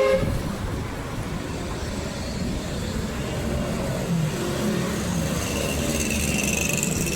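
A vehicle running with a steady low rumble, and a few higher pitched tones near the end.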